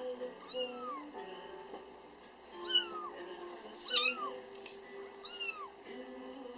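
A Bengal kitten meowing four times, short high calls about a second apart, each rising then falling in pitch. Quiet background music plays underneath.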